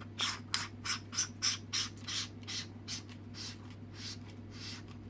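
Hand twisting a part of a Fenix CL30R lantern's battery section, likely its threaded cap, into place: a run of short rasping rubs, about three a second, that fade in the last couple of seconds.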